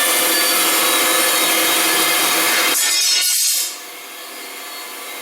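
Delta 14-inch bandsaw cutting through a piece of wood, a loud dense sawing noise. The cutting noise drops away sharply about three and a half seconds in, and the saw runs on more quietly with no load.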